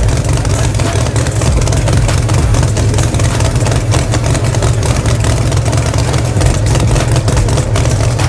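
Drag racing car engine idling loudly with a rough, uneven beat.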